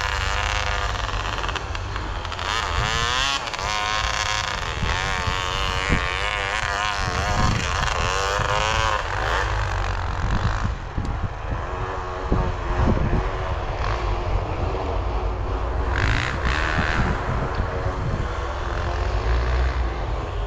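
Dirt bike engines revving, their pitch rising and falling again and again in the first half and running steadier later, over a heavy low rumble.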